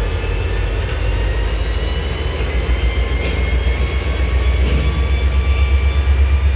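A locomotive running in a railyard: a deep engine rumble that grows louder and starts to pulse near the end, with a thin high whine slowly rising in pitch and a few sharp clicks.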